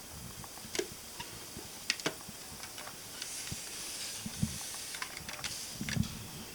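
Quiet handling of a novelty singing frog cookie jar: a few light, scattered clicks and knocks over a faint hiss, with the jar's song silent.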